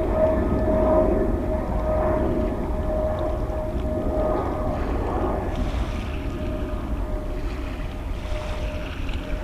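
Jet airliner engines rumbling as the aircraft climbs away, gradually fading, with a whining tone that dies away about four seconds in. Wind buffets the microphone underneath.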